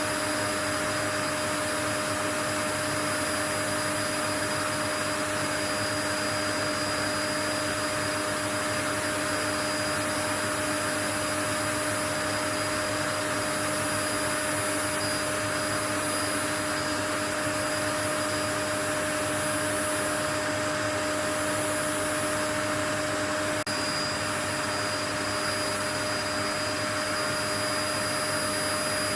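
Steady, unbroken white noise: an even whoosh with a few constant hum tones through it, like an appliance motor running.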